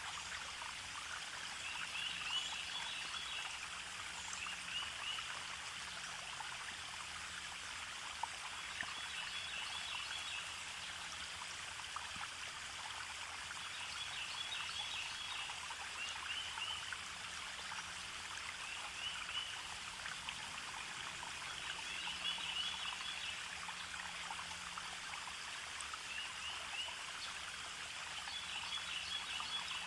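A forest stream flowing and trickling steadily, with short bursts of high chirping calls recurring every few seconds over it.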